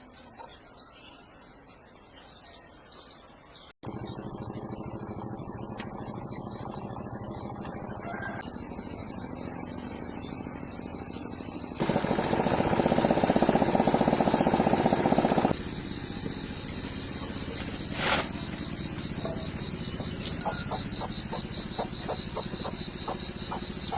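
Insects chirping high and steadily, joined after a cut by a steady mechanical hum that grows louder for a few seconds in the middle, with a rapid ticking near the end.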